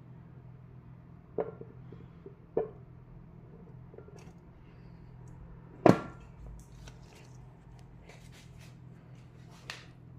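Four sharp knocks or clanks, the loudest about six seconds in, over a steady low hum.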